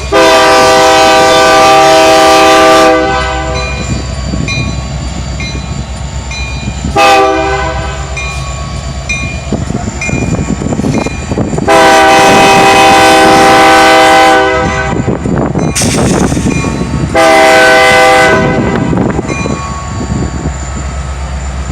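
Union Pacific diesel locomotive's multi-tone air horn sounding four blasts: long, short, long, then a shorter one. A steady rumble from the passing train runs under and between the blasts.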